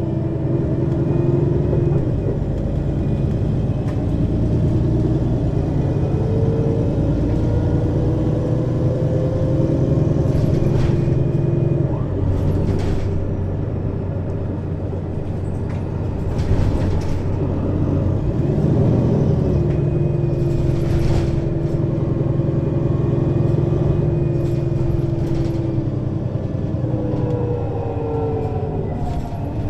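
Diesel engine of a 2003 Mercedes-Benz Citaro city bus running under way, heard from above the rear engine, with the whine of its ZF Ecomat 2 6HP-592 C automatic gearbox. The pitch rises as the bus pulls away, drops off past the middle, then rises and falls again.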